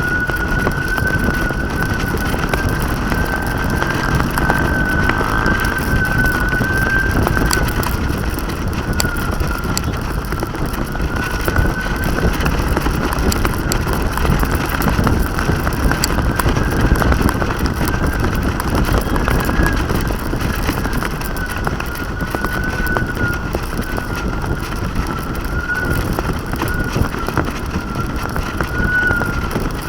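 Wind buffeting the microphone of a camera flying on a kite, with a steady high hum that wavers slowly up and down throughout.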